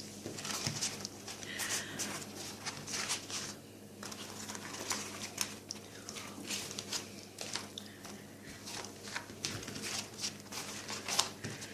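Hands rolling a filled flatbread into a shawarma: an irregular run of soft rustles, small crackles and light taps as the bread is folded and pressed around the filling. A faint steady hum sits underneath.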